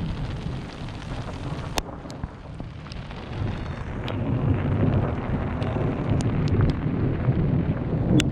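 Storm rain striking the tent, with scattered sharp drop impacts over a low rumble that builds about four seconds in.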